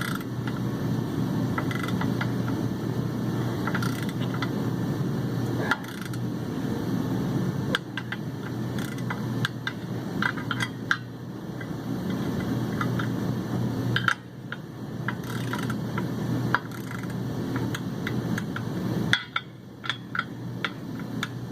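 Ratchet wrench clicking and metal scraping while the clutch pressure plate bolts are drawn down onto the flywheel, over a steady low hum.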